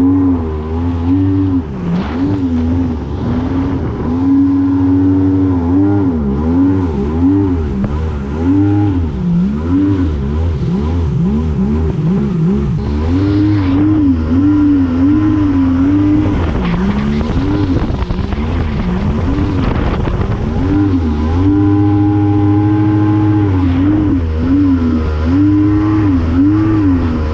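Yamaha Wave Venture 1100 jet ski's three-cylinder two-stroke engine running under way, its pitch rising and falling again and again as the throttle and load change. It holds a steadier note briefly after about four seconds and again a little past twenty seconds.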